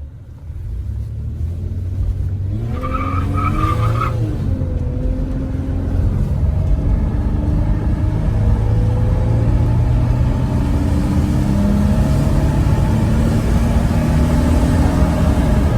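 Toyota with a freshly replaced exhaust, driving and accelerating; the engine note climbs over the first couple of seconds, then runs on steadily with shifts in pitch. A brief high squeal comes about three seconds in.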